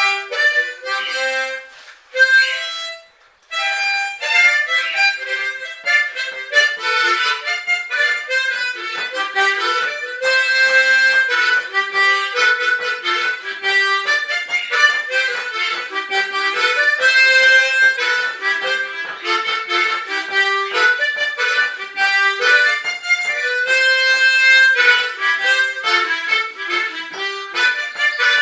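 Harmonica played solo: a quick, continuous melody of short notes, with a brief pause near the start.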